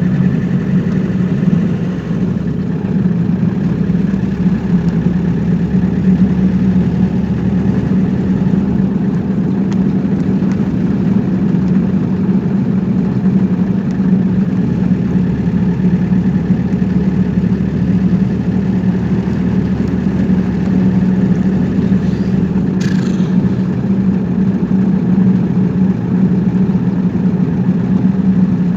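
Steady engine and road noise of a vehicle being driven, a constant low drone, with one brief sharper sound about two-thirds of the way through.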